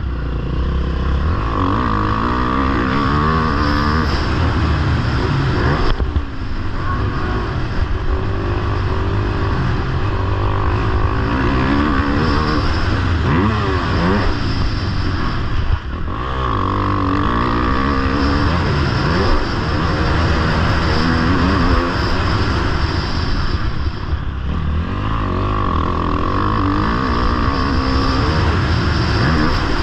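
Motocross bike engine running hard and close, its pitch repeatedly climbing and dropping as the throttle is opened and closed and the gears change. Short dips where the throttle is shut come about 6, 16 and 24 seconds in.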